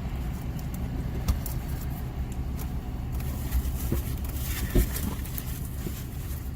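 Steady low rumble of a car engine, with a small knock about a second in and a louder one near the end.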